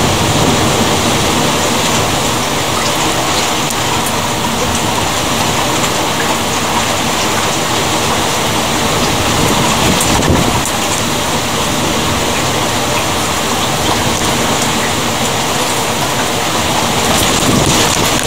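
Rain falling steadily during a thunderstorm, an even hiss of drops with a short louder burst about ten seconds in.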